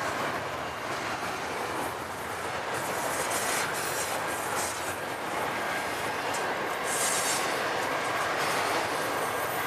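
Union Pacific double-stack intermodal freight train's container cars rolling past: a steady rumble and rattle of steel wheels on rail, with intermittent high-pitched wheel squeal, strongest about seven seconds in.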